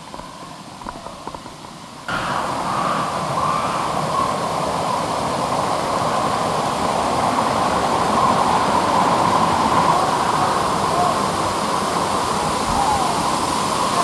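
Waterfall of about 20 to 25 feet, its falling water rushing as a steady, even noise that comes in suddenly about two seconds in, after a quieter start.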